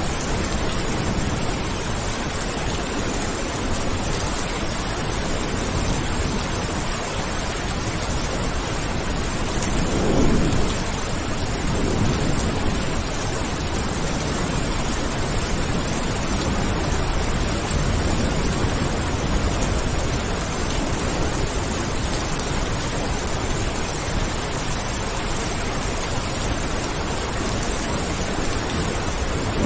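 Steady heavy rain with a low rumble of thunder about ten seconds in.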